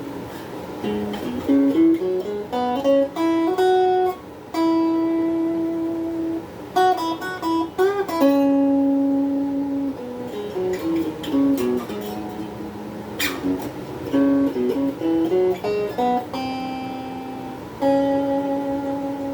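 Donner Q1 HSS Strat-style electric guitar played clean through a small amp with a phaser and hall reverb. It plays single-note melodic phrases: quick runs of notes rising and falling, each ending on a long held note.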